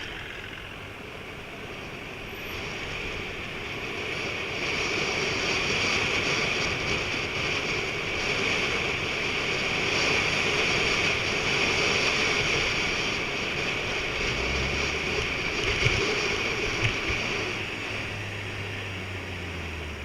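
Steady rushing noise of wind and tyres while riding a mountain bike, swelling a few seconds in and easing later; a low steady hum joins in for the last few seconds.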